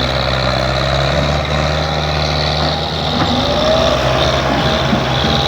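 Banaras 510 tractor's diesel engine running loudly and steadily, as if under load, its tone shifting slightly about three seconds in.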